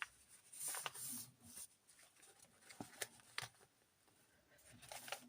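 Pages of a handmade paper journal being turned and handled: soft paper rustling about a second in and again near the end, with a few light taps and clicks around three seconds in.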